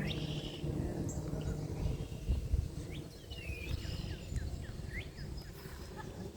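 Several wild birds chirping and calling, mostly short quick rising chirps with a few falling slurred notes, over a steady low background rumble.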